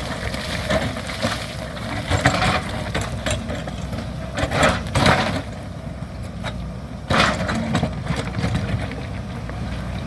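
JCB backhoe loader's diesel engine running steadily, with three louder rough noises about two, five and seven seconds in.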